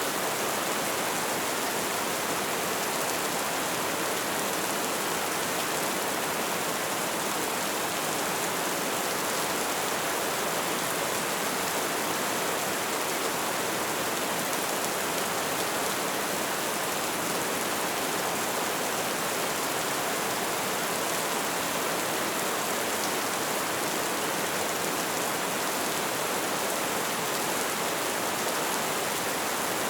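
Steady light rain falling, an even hiss of drops with no breaks or single loud drops.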